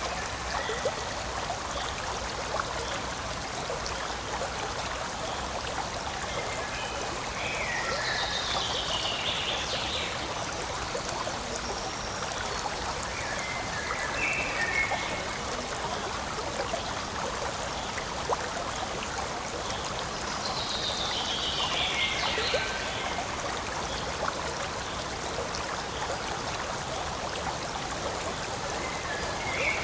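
A forest stream flowing and trickling steadily. Every few seconds a short call falls in pitch over it.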